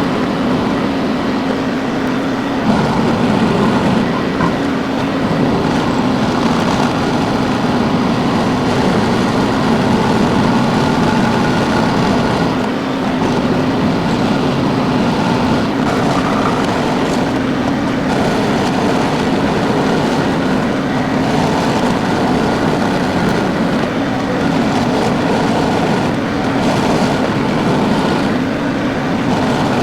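Tractor engine running steadily as the tractor is driven.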